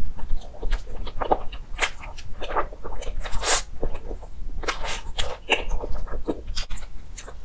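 Close-miked mouth sounds of someone biting and chewing a soft cream-filled sponge cake: irregular wet smacks and clicks, with a short breathy hiss about three and a half seconds in.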